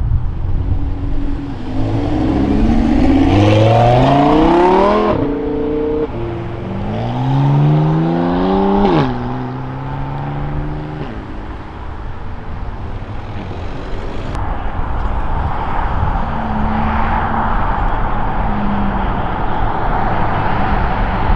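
A modified car accelerating hard away, its engine revs climbing and then dropping sharply at a gear change, twice in a row. After that, car engines run steadily at lower revs.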